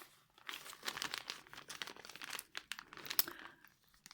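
Packaging of a craft set crinkling and crackling in irregular bursts as it is handled, with one sharper crackle about three seconds in.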